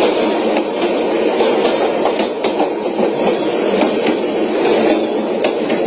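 Train running along the track: a steady rumble with irregular clicks of the wheels over the rail joints.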